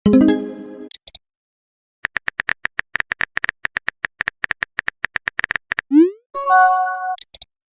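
Phone texting sound effects: a chime fades out, then rapid keyboard tap clicks for about four seconds, a short rising swoosh as a message is sent, and a multi-note notification chime, followed by a few more taps.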